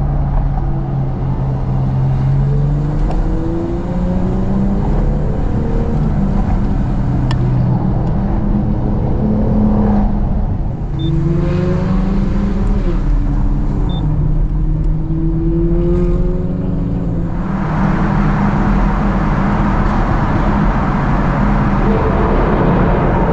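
Car engine heard from inside the cabin, rising in pitch under acceleration and dropping at each gear change several times, over steady tyre and road noise. About 17 seconds in, a louder rushing noise takes over as the car runs into a tunnel.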